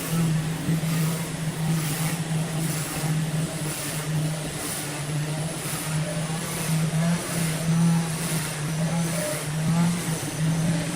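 An engine or large motor running steadily at constant speed, a low even hum with no revving.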